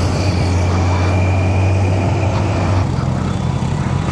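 Kawasaki Z900's inline-four engine running steadily at cruising speed, heard over wind rush, with a slight change in the engine note about three seconds in.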